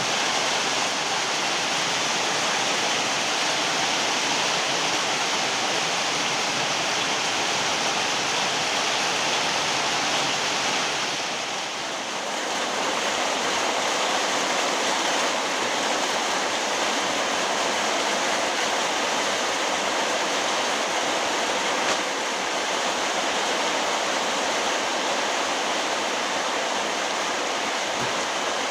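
Heavy rain pouring down in a steady, even hiss, easing slightly for a moment about twelve seconds in.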